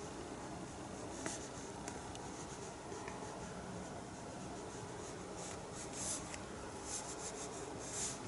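Paintbrush stroking acrylic paint onto a painting surface: faint scratchy swishes and light taps, coming closer together in the last few seconds.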